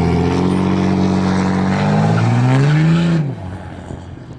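A car engine accelerating hard, its note held high and steady, then climbing briefly before breaking off abruptly about three seconds in.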